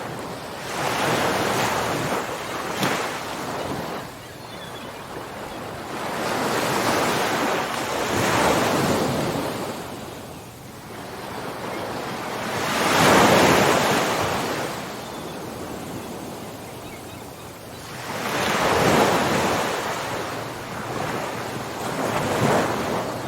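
Ocean waves breaking and washing on a shore, each wave swelling and fading in a slow surge every few seconds. The loudest wave comes about halfway through.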